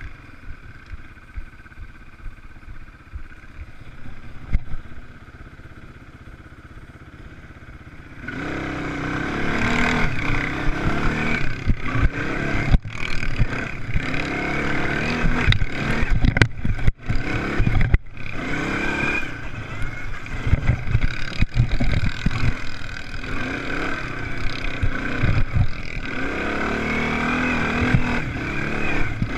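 Motocross race engines: a quieter engine drone at first, then about eight seconds in the racing machines come loud and close, revving up and down continuously, with a few brief cut-outs in the middle.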